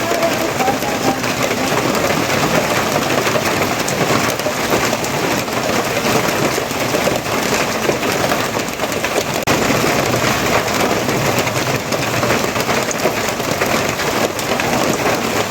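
Steady heavy rain falling: a dense, even wash of drops that holds at the same strength throughout.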